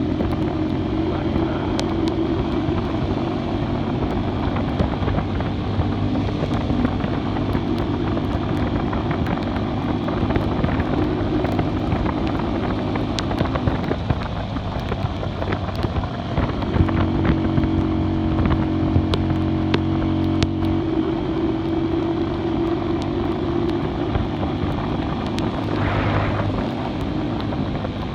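Classic Earl 150 cafe racer motorcycle engine running while riding, with wind buffeting the microphone. The engine note falls away about halfway through, then comes back as a clear steady tone for a few seconds.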